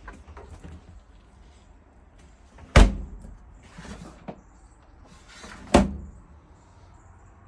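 A door shut hard twice, about three seconds apart, each a sharp bang with a short ring after it.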